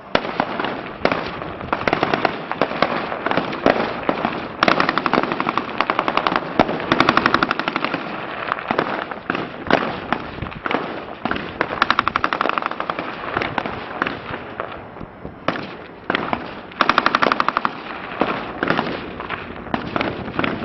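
Heavy small-arms gunfire in a firefight: a steady run of shots with rapid automatic strings, the densest about five to seven seconds in, around twelve seconds and again near eighteen seconds.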